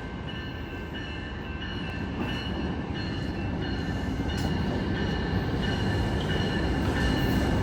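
Amtrak Capitol Corridor passenger train led by a Siemens Charger SC44 diesel locomotive approaching the station, its rumble growing steadily louder. Faint high steady tones sound over the rumble.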